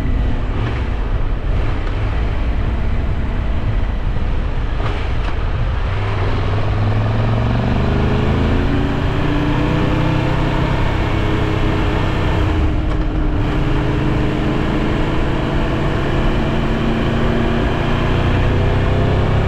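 Triumph Tiger 1200 Rally Pro's three-cylinder engine running under way, with wind rushing over the microphone. From about six seconds in, the engine note rises gradually as the bike accelerates.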